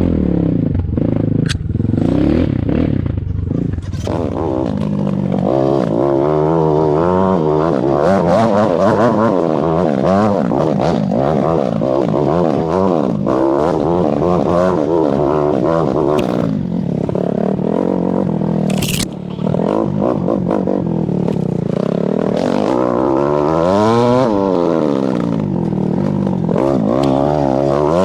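Enduro dirt bike engine being ridden off-road, its revs rising and falling continuously as the throttle is worked.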